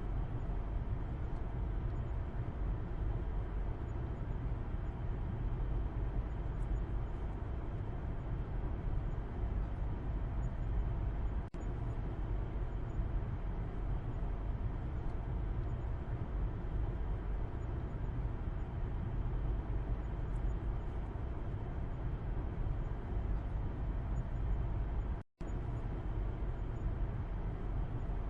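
Car cabin road noise heard from the back seat while driving: a steady low rumble of tyres and engine, with a moment where the sound cuts out briefly near the end.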